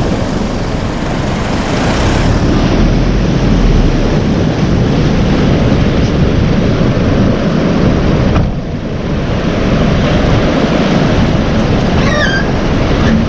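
Waves breaking in the surf with wind buffeting the microphone: a loud, steady rushing with heavy low rumbling, dipping briefly about two-thirds of the way through.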